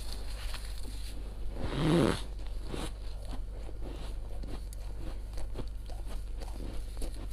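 Thin, crunchy freezer frost crackling close to the microphone: a run of small crackles, with one louder, longer crunch about two seconds in.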